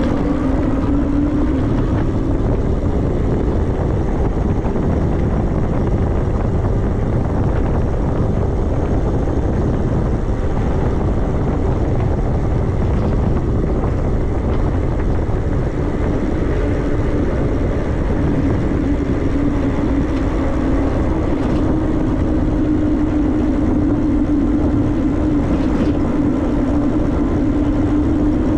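Heavy rushing wind and road noise from riding an e-bike at racing speed. A steady whine, most likely the electric motor under load, shows briefly at the start and comes back for the second half.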